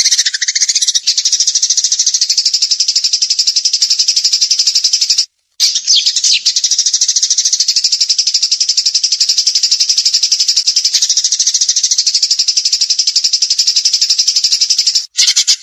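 A songbird's 'tembakan' song: a dense, high, very fast stream of rapid-fire repeated notes, broken by a brief silence about five seconds in.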